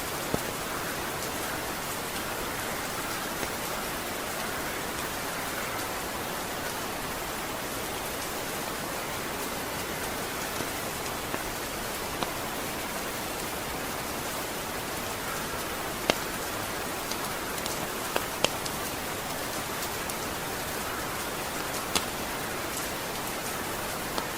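Steady rain falling, an even hiss of rain on a surface, with a few sharp, isolated ticks scattered through it.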